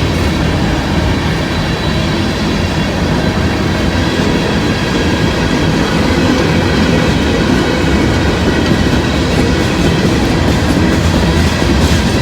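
Freight cars of a mixed manifest train rolling past at speed: a steady, loud rumble of steel wheels on the rails with clickety-clack over the joints.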